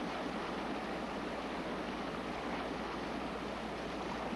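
Steady rushing of water, an even wash with no distinct splashes or breaks.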